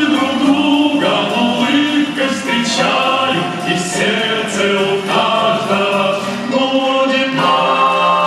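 Vocal ensemble singing the closing bars of a song, settling onto a long held final chord about seven seconds in.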